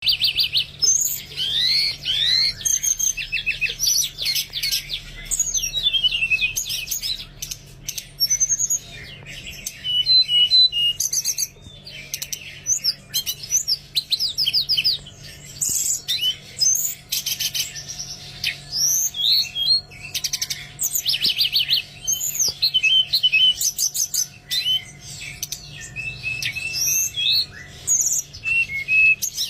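Teledekan songbird singing: bursts of fast trills and rising and falling whistled notes in quick phrases, with short pauses between them.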